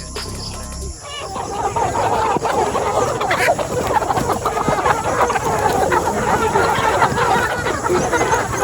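A flock of Brown Nick and Black Nick layer hens clucking all together, a dense overlapping chatter that starts about a second in; the hens are eager for their feed.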